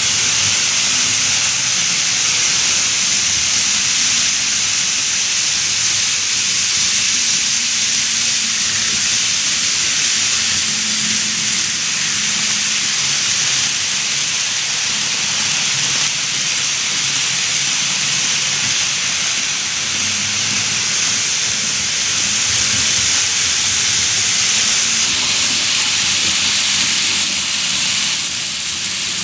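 N gauge model train running along the layout track: a steady hiss of wheels rolling on the rails with a faint low hum from the motor underneath.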